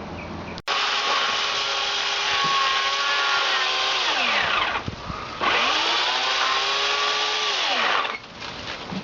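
Chainsaw running at full speed in two long runs, cutting into the trunk of a giant bird of paradise (Strelitzia nicolai). Its whine drops in pitch and dies away about four seconds in, then picks up again and falls off once more near the end.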